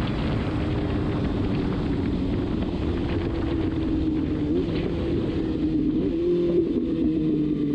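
Kawasaki Ninja ZX-6R inline-four engine running at a steady highway cruise, its note wavering briefly twice and easing slightly lower near the end, with wind rush over it.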